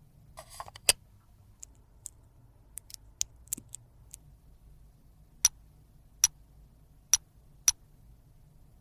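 Sharp clicks and taps from handling makeup containers and tools, with a brief scrape just before the first loud click about a second in. Scattered faint ticks follow, then four loud, evenly separated clicks in the second half.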